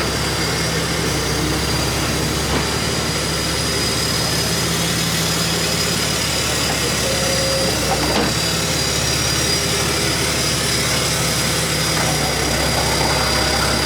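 A vehicle engine idling steadily, with a thin steady high whine over it.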